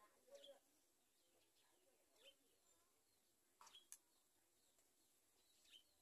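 Faint short chirps of yellow-vented bulbuls at the nest, four or so spaced a second or two apart, each sweeping down in pitch, with a quick double chirp about two-thirds of the way in.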